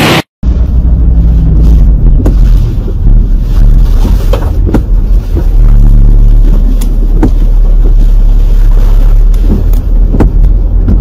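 Storm wind buffeting the microphone as a heavy, steady rumble, with scattered sharp knocks of hailstones striking.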